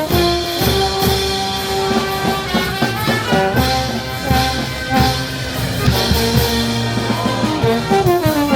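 Brass band playing: held brass notes over steady drum beats, with a falling pitch slide near the end.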